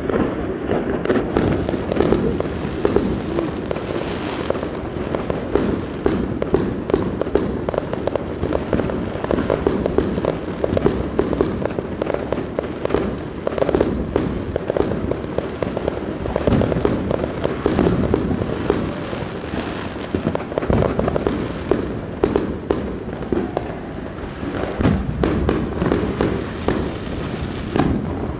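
A dense barrage of fireworks and firecrackers going off at once: many overlapping bangs and crackles, packed close together at a steady loud level.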